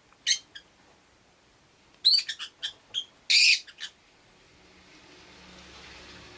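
Peach-faced lovebirds calling: one short sharp chirp, then about two seconds in a quick burst of high, shrill chirps ending in a longer harsh screech.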